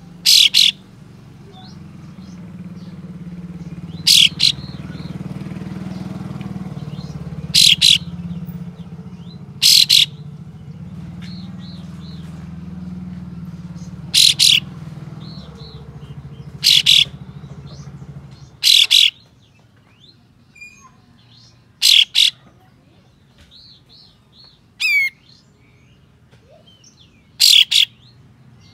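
Kapas tembak songbird giving loud, sharp, short 'shot' calls, about ten of them every two to five seconds, with softer chirps in between. A low hum runs underneath and stops about two-thirds of the way through.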